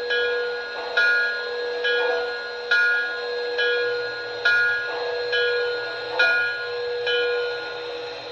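Locomotive bell from an MTH Proto-Sound 2 model steam engine's speaker, ringing steadily at a little over one strike a second, about ten strikes in all. It plays over a steady hum from the engine's sound system.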